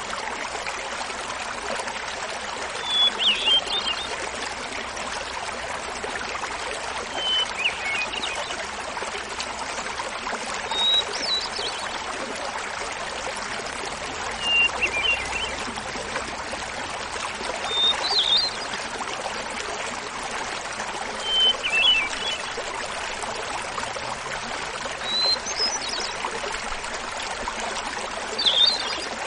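A small mountain waterfall babbling steadily, with a hermit thrush singing over it. Its flute-like phrases come about every three to four seconds, eight in all, each a held opening note followed by a quick flurry, at shifting pitches.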